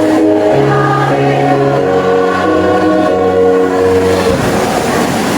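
A choir singing long held chords in several parts, the chord shifting every second or so; the held notes end about four seconds in.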